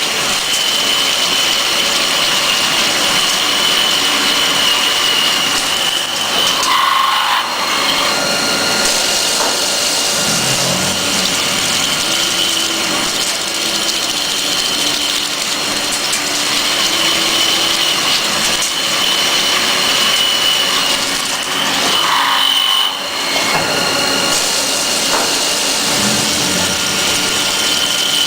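CNC drilling machine at work: a steady high-pitched spindle whine over dense cutting noise. The sound changes briefly about 7 seconds in and again about 23 seconds in.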